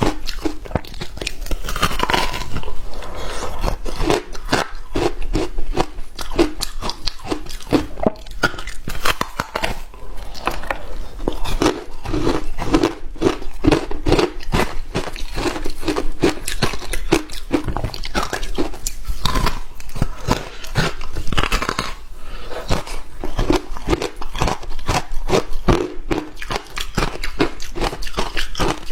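Hard ice being bitten and chewed close to the microphone: a dense run of sharp crunches, many a second, without a break.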